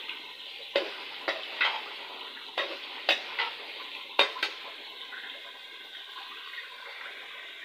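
Chicken, potatoes and masala sizzling steadily as they are fried down in a steel pot. A metal slotted spoon stirs and clinks against the pot about eight times in the first half.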